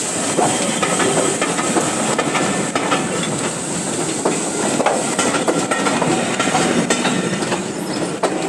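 Steam-hauled train rolling out of the station, a steady rumble of the moving train with many irregular clicks of its wheels over the rail joints.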